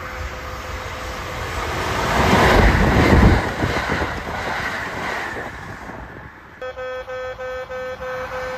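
Kintetsu 30000 series Vista EX limited express passing through at speed: a rushing rumble that builds to its loudest about three seconds in, then fades. From about six and a half seconds a level crossing warning bell rings in a quick, even repeating pattern.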